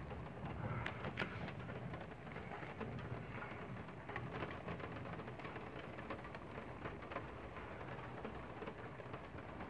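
Steady rain falling, with individual drops ticking sharply on the glass and frame of an open roof window.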